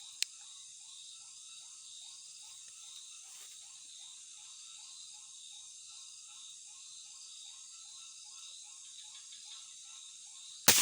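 Steady night chorus of crickets and insects, with a quick series of short chirping calls about three a second. Near the end a single sharp air-rifle shot cracks out, the loudest sound.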